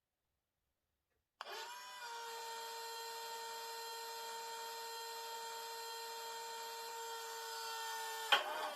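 A small electric motor, likely an H0 model locomotive's, whining at a steady pitch after starting abruptly about a second and a half in, with a sharp click near the end.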